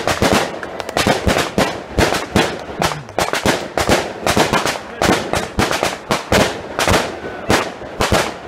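A rapid, irregular series of sharp cracks and pops, several a second.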